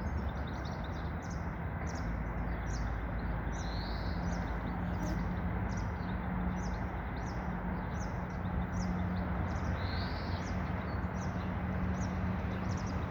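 Birdsong: a small songbird repeating a short high chirp about two times a second, over a steady low background hum.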